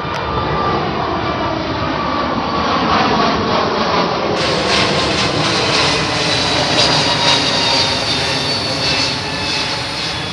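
Jet airliner climbing out overhead at full takeoff power: a loud, steady jet-engine noise with a whine that falls in pitch as the aircraft passes, loudest in the middle and easing off near the end.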